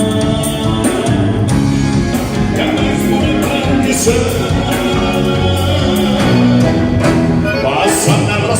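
Live band playing a song with a singing voice over a steady beat, at a sound check.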